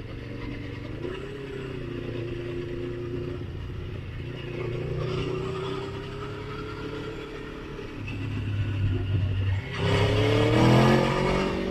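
Motorcycle engine running at road speed, its pitch wavering gently, then a louder spell of acceleration about ten seconds in with the engine note climbing.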